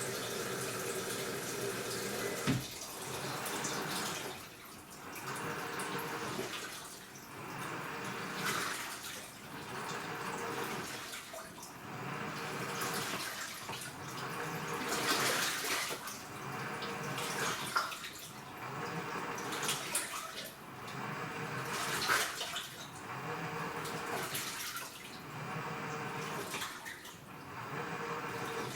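AQUA washing machine with a direct-drive inverter motor agitating laundry in water. The swishing swells and fades about every two seconds.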